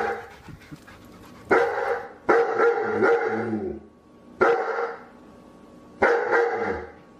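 A dog barking in short bouts: four loud barks or bark clusters, each starting sharply and fading within about a second, with quieter gaps between.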